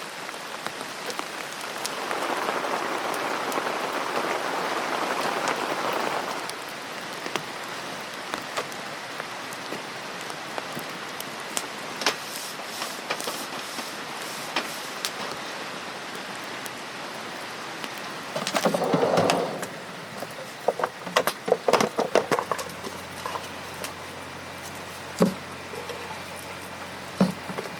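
Steady rain falling, swelling louder for about four seconds a couple of seconds in. Past the middle comes a brief rush of noise, followed by a scatter of sharp knocks and clatter.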